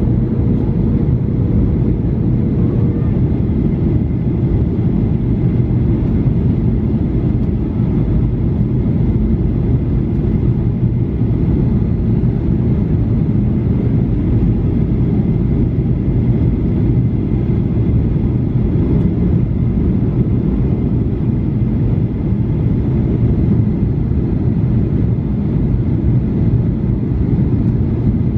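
Passenger aircraft heard from inside the cabin: a steady, unchanging rumble of engines and airflow, with faint steady tones above it.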